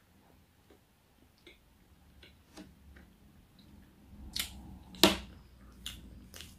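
Close-up mouth sounds of a person chewing food: faint wet clicks at first, then a few sharper lip smacks from about four seconds in.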